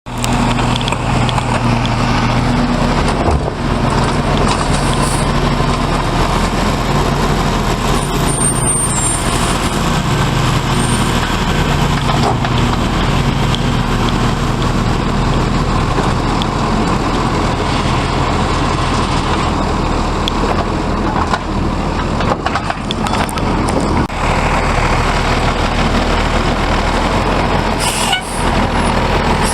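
Garbage truck engine running steadily.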